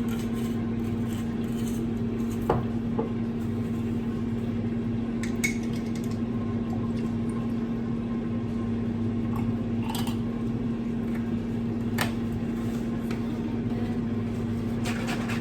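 Countertop air fryer running with a steady, even hum from its fan, with a few light clinks of glass or dishes now and then.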